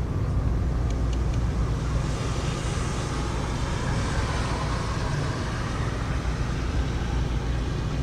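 Heavy rain falling steadily, with a low rumble underneath and a swell of hiss about two seconds in that fades by the middle.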